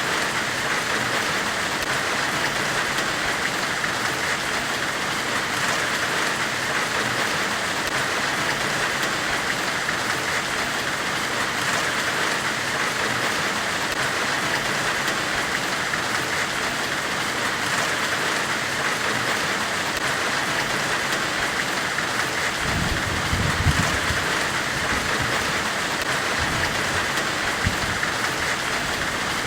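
Steady hissing white noise in the manner of a forge weld's hiss, strongest in the upper-middle range. About 22 seconds in, a low rumble joins it with a couple of soft knocks.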